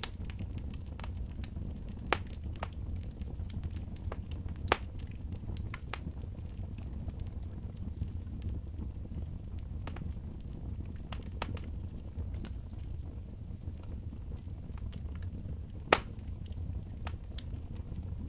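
Wood fire crackling in a fireplace: scattered sharp pops and snaps, the loudest about 16 seconds in, over a steady low rumble.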